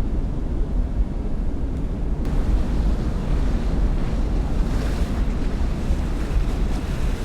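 Wind rumbling on the microphone over the wash of water and waves, steady throughout, with more hiss from about two seconds in.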